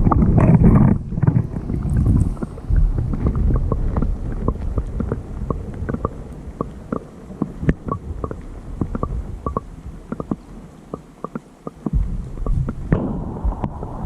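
Wind buffeting the microphone as a low rumble, strongest in the first second or two, with scattered small knocks and taps through it.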